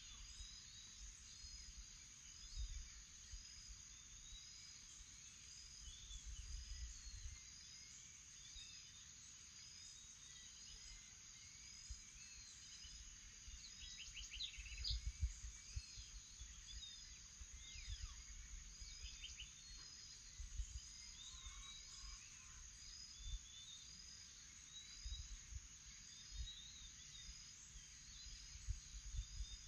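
Faint morning chorus of birds: one bird repeats a short high chirp about once a second while others call here and there, over a steady high insect drone. Low rumbles come and go underneath.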